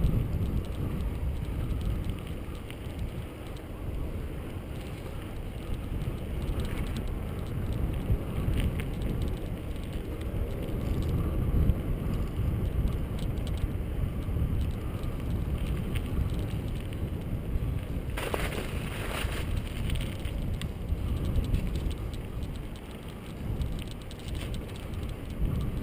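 Riding a bicycle along a bike path, heard on a GoPro: a steady low rumbling rush of wind on the microphone and tyres rolling. About 18 seconds in, a brief louder hiss of noise comes and goes.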